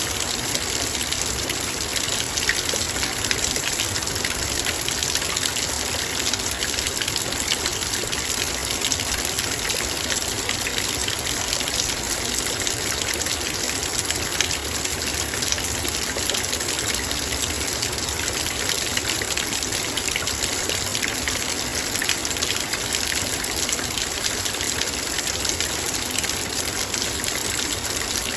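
Heavy rain falling steadily on a metal bowl: a dense, even hiss of drops with countless fine pings on the metal.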